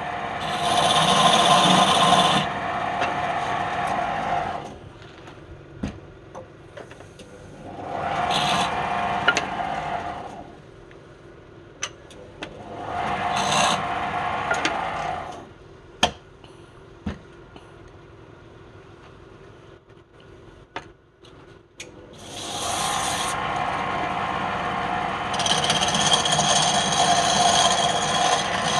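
A woodworking power tool working wood in repeated passes of a few seconds each, with a steady whine under the rasping noise. Between passes it drops back to a low hum, with a few sharp knocks of wood.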